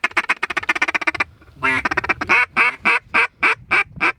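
Mallard-style duck quacking: a fast chatter of quacks for about a second, then after a short pause a steady run of about nine loud quacks, roughly four a second.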